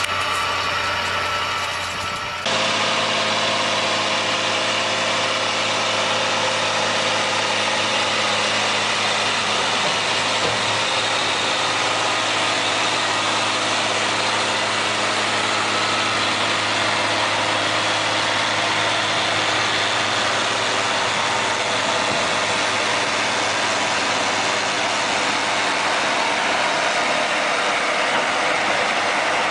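Engine of a farm machine running steadily at a constant speed, dense and mechanical, changing abruptly about two seconds in as a different machine takes over.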